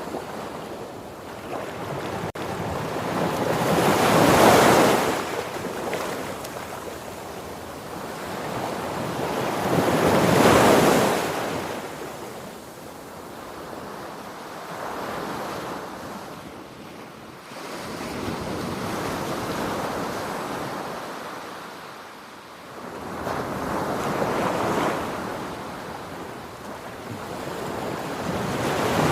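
Sea waves washing and breaking in repeated swells, each surge rising and falling away about every five to six seconds, with wind noise on the microphone.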